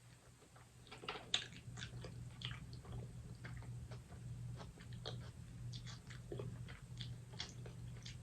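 Close-up chewing and biting of seafood in butter sauce: irregular wet smacks and clicks of the mouth, with a low steady hum underneath.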